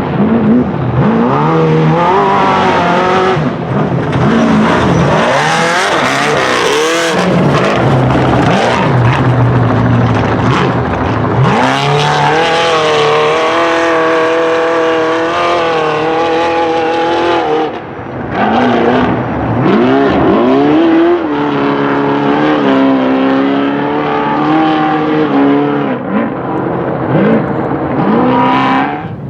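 Race trucks' engines revving hard at speed, the pitch climbing and falling again and again as they accelerate, shift and pass by.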